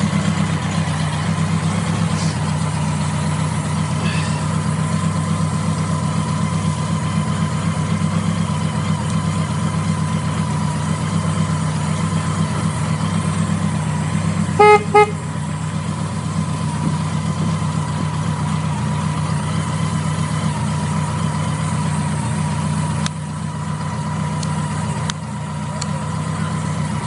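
BMW K100 café racer's inline-four engine idling steadily at about 1,000 rpm. About halfway through, a horn gives two short beeps.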